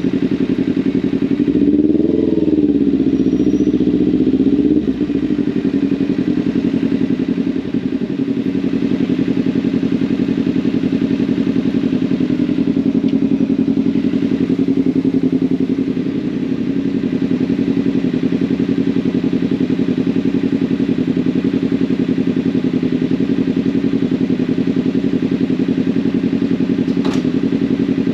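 Motorcycle engine running steadily at low revs, with one rise and fall in engine pitch a couple of seconds in.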